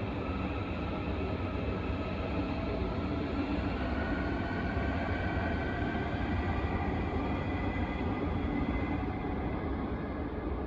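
Freight train rolling past on the line: a steady rumble of wheels on rails with faint ringing tones above it, easing off slightly near the end.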